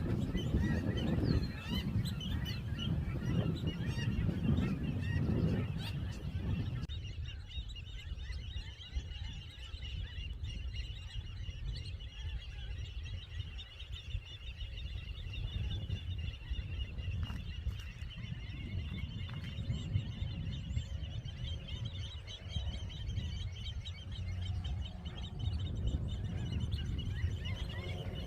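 A dense chorus of many birds calling at once, typical of a nesting colony of waterbirds. A heavy low rumble lies under the calls for about the first seven seconds, then drops away.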